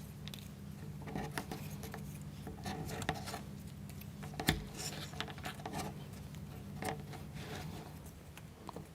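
Small clicks and rubbing of wooden toothpicks being pushed into the holes of a plywood model part, with one sharper click about halfway through.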